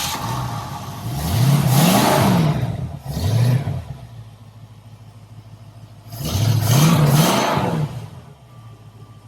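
Ford 302 Mustang V8 engine in a custom-built motorcycle idling and being blipped: a quick double rev about a second in, a single rev around three seconds, then idle until another double rev around six seconds, dropping back to idle.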